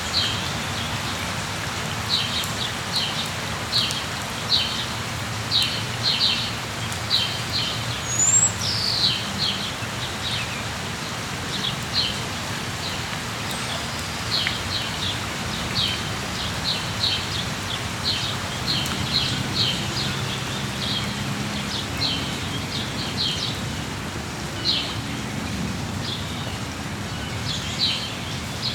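Steady rain falling, with a bird chirping over it in quick runs of short, high notes. The chirps repeat with brief pauses, and about eight seconds in there is one falling whistle.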